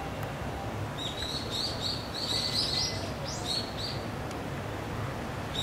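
A small bird chirping a quick run of short high chirps starting about a second in and lasting a few seconds, over a steady low rumble.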